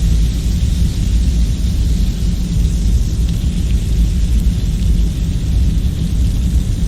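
A steady deep rumble with a light hiss above it, unchanging throughout: continuous background ambience.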